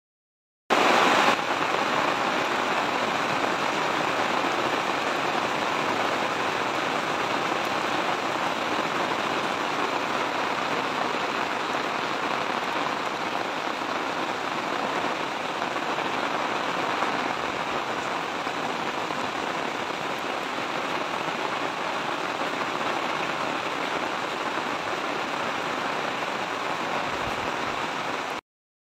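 Heavy rain pouring down steadily, an even dense rush of falling water. It starts abruptly about a second in and cuts off suddenly just before the end.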